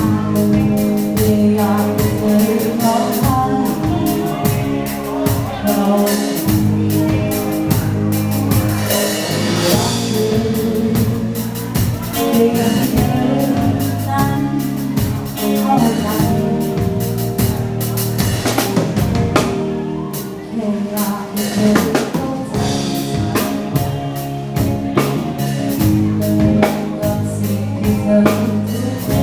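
Live pop band playing an upbeat dance song: drum kit, bass and other instruments with a singer. There is a short break in the band about twenty seconds in before it comes back in.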